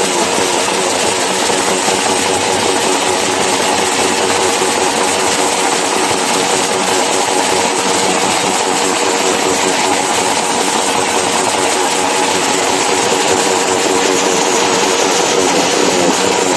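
Several tuned motorcycle engines running together, loud and steady, their engine tones layered over one another in a dense wall of sound.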